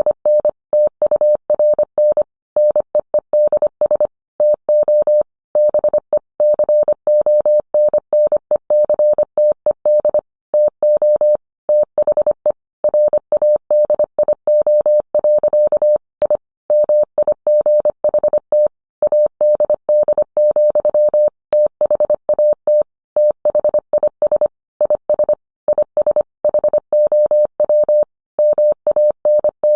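Morse code: a single steady mid-pitched electronic tone keyed on and off in short and long elements (dits and dahs), with brief gaps between characters and words, sent at an even machine-like pace.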